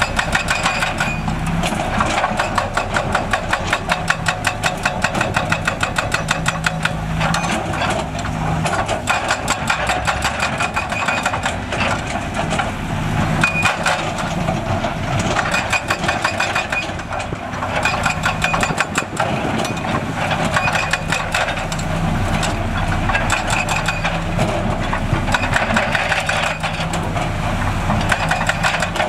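Diesel engines of heavy construction machinery running, with a fast, steady clatter.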